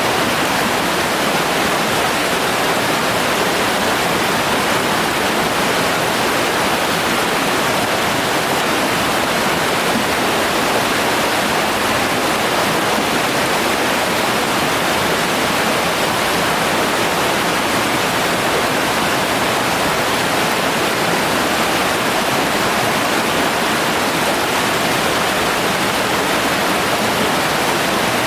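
Steady rushing of flowing river water, an even noise that holds level throughout and drops off suddenly at the very end.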